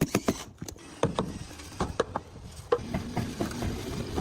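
Irregular wooden knocks, taps and clicks from timber being handled and fitted together.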